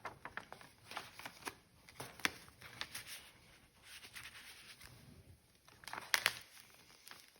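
Paper pages and tags of a handmade junk journal being handled and turned, with irregular rustling and crinkling and a couple of sharper page flaps about two and six seconds in.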